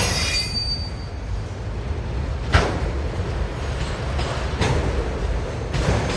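A long train rolls slowly past: a steady low rumble of wheels and cars, a brief high wheel squeal at the start, and sharp metallic bangs about two and a half seconds in, about four and a half seconds in, and near the end.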